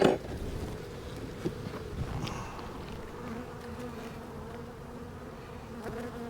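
Honeybees buzzing in a steady hum over an opened hive, with a sharp knock at the very start.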